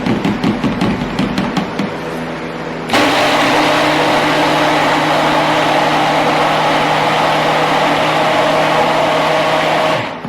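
Stick blender mixing soap batter. First comes about three seconds of quick clicking and scraping in the bowl, then the blender motor runs steadily for about seven seconds and stops abruptly near the end.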